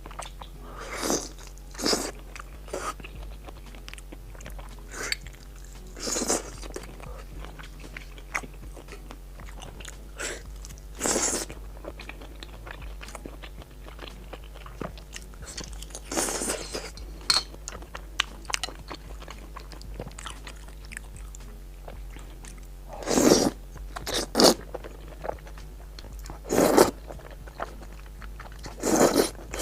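A person eating close to the microphone: steady chewing and biting with crunchy bites, and a louder half-second burst of eating noise every few seconds.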